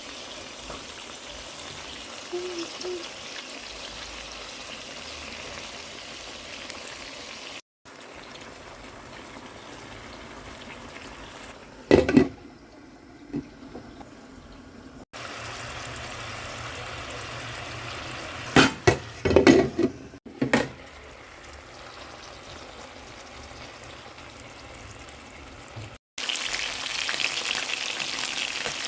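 Chicken pieces frying in a pan, a steady sizzle broken by a few short gaps. Loud knocks stand out about twelve seconds in and again around nineteen to twenty seconds.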